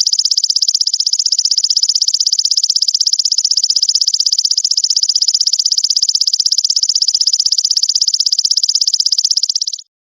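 A continuous high buzzing 'brem' trill, rapidly pulsed at about ten pulses a second, from a looped song-training recording. It cuts out briefly near the end and then starts again.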